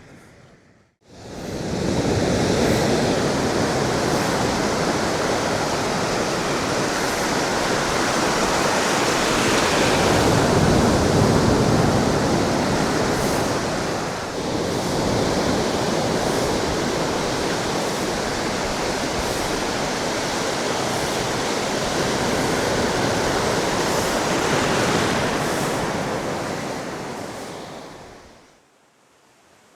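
Ocean surf washing against the shore: a steady rush of waves that swells and eases, fading in about a second in and fading out near the end.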